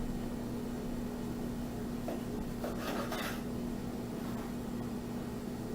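Knife cutting through a bread sandwich, with a few scraping strokes about two to three seconds in, over a steady low hum.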